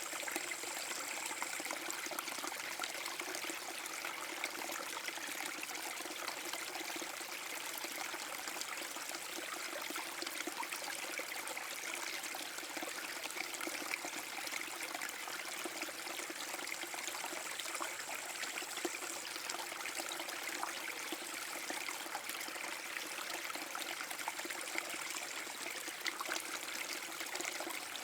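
Small forest-brook waterfall: water spilling and trickling over rocks with a steady rushing splash.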